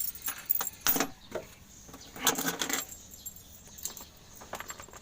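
A few sharp metallic clicks and jingles, then a longer clattering rattle about two seconds in.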